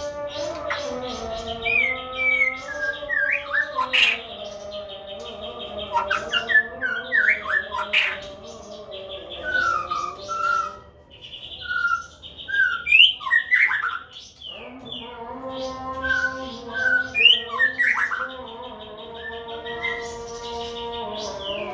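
White-rumped shamas calling in short whistled notes and squawks, over background music that drops out for a few seconds in the middle.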